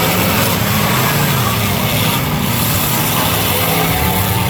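Several demolition derby cars' engines running and revving at once, loud and steady throughout, with no single crash standing out.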